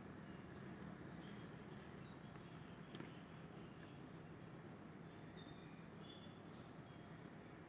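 Faint outdoor ambience: scattered short, high chirps over a steady low hum, with one sharp click about three seconds in.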